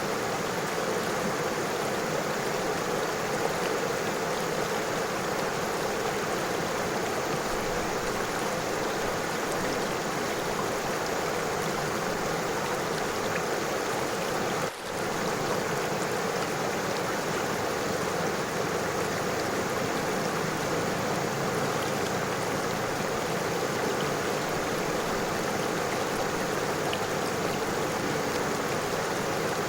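River water flowing steadily over stones, an even rushing with no single splashes standing out, with a momentary dip in level about halfway through.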